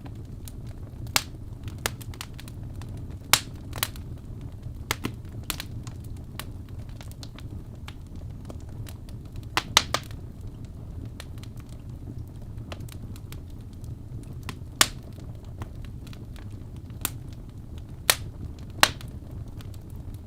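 Wood fire burning in a fireplace: a steady low rumble of the flames with irregular sharp pops and crackles from the logs, the loudest a few seconds apart.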